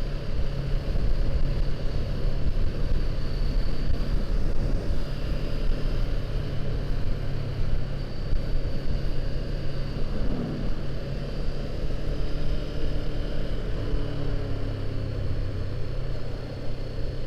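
Honda CBR500R's parallel-twin engine running steadily while riding at road speed, with wind buffeting the microphone.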